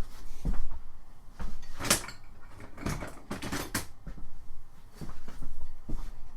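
Irregular clicks and knocks of small metal and plastic trimmer-attachment parts being handled and fitted together by hand. The loudest knock comes about two seconds in, with a quick cluster a second later.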